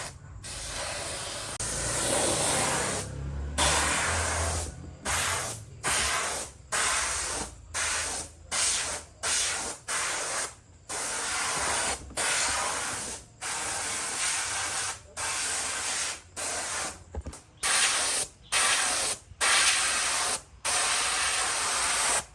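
Paint spray gun hissing in about twenty short bursts, one trigger pull after another, with brief gaps between them.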